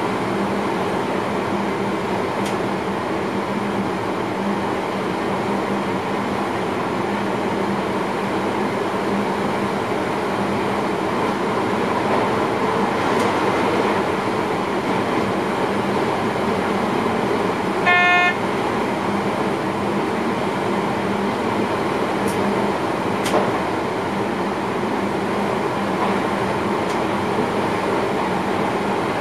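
Electric passenger train running, heard inside the driver's cab: a steady rumble and rolling noise with a constant low hum. About two thirds of the way through, a single short pitched tone sounds for about half a second.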